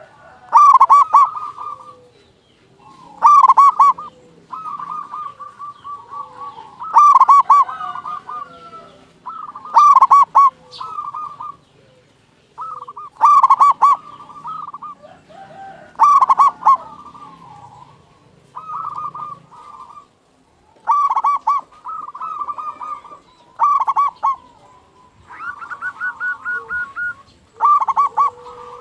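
Zebra dove (perkutut) singing its repeated cooing song. There are about ten phrases, roughly one every three seconds, each opening with a loud burst of quick notes and trailing into softer coos.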